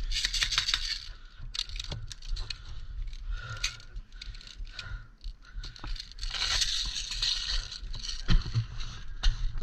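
Rustling and scraping with small clicks and rattles of gear as an airsoft player moves on foot, over a low rumble of wind or handling on the microphone. The noise comes in louder patches near the start and again a few seconds before the end.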